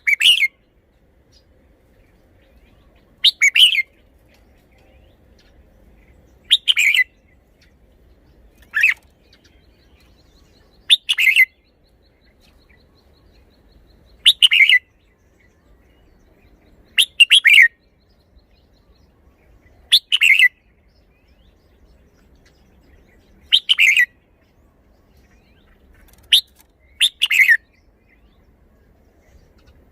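Red-whiskered bulbul singing short, loud song phrases, about ten of them, one roughly every three seconds with quiet pauses between.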